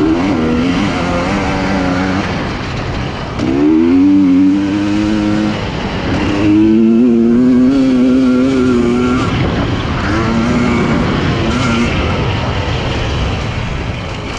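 Husqvarna TE300i two-stroke single-cylinder dirt bike engine under hard riding, revving up and down with the throttle: the pitch climbs sharply about three and a half seconds in and again about six seconds in, holds high for a couple of seconds each time, and falls back between.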